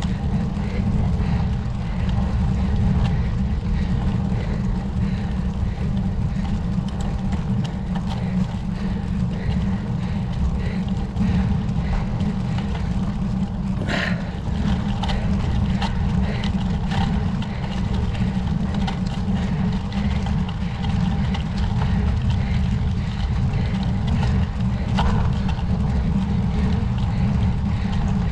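Steady wind rumble on the microphone of a camera riding along on a road bike.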